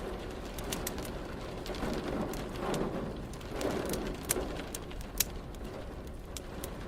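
Wood fire crackling, with sharp scattered pops over a steady low hiss. In the middle, two low, grainy swells rise and fade.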